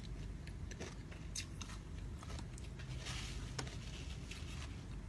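Faint eating sounds: scattered small clicks of chewing, with a short rustle about three seconds in.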